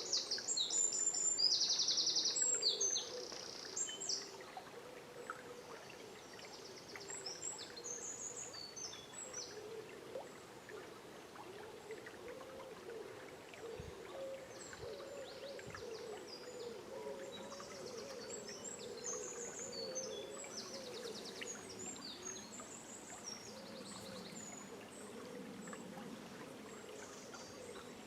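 Small songbirds chirping and singing in high, quick phrases, loudest in the first three seconds, over the steady murmur of a river.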